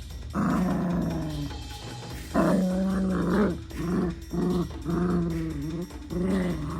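Toy poodle puppy growling in a string of growls: two long ones of about a second each, then several shorter, quicker ones.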